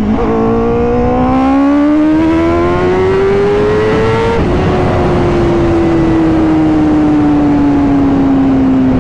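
Honda CBR1000RR-R Fireblade SP's inline-four engine pulling hard through one gear, its pitch climbing steadily for about four seconds. A quick upshift then drops the pitch, and the note falls slowly as the bike eases off in the next gear.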